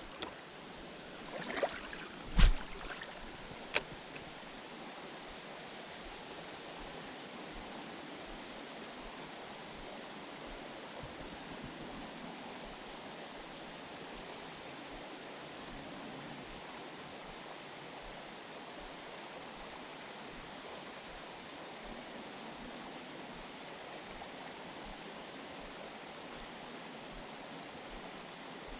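Steady high-pitched insect chorus of crickets trilling without a break. A few knocks come in the first few seconds.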